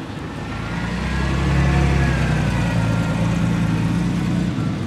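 Ferrari Dino's V6 engine running at low revs as the car drives slowly past, growing louder about a second in and dropping away near the end.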